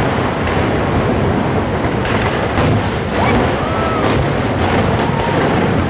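Fireworks display: aerial shells bursting in quick succession, many overlapping bangs over a continuous rumble.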